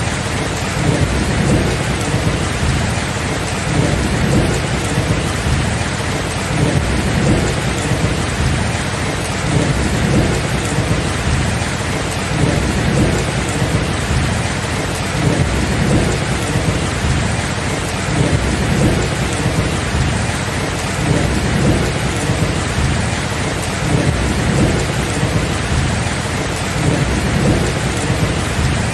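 Steady rain with a low rumble of thunder underneath that swells and eases every couple of seconds.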